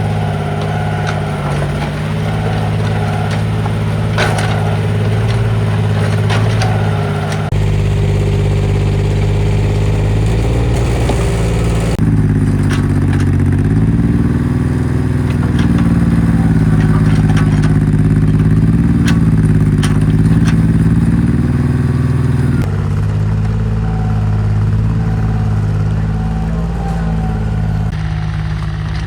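Mini excavator's engine running under work load with scattered clanks and clatter. The engine note rises and gets louder about twelve seconds in, then drops back about ten seconds later.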